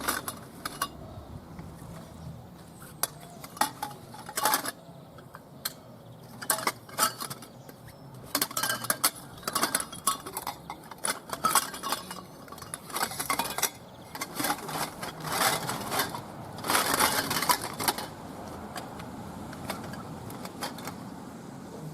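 Hard boat-kit parts knocking and clinking against each other as they are laid into a carry bag: scattered sharp knocks all through, with a denser stretch of clattering and rustling past the middle.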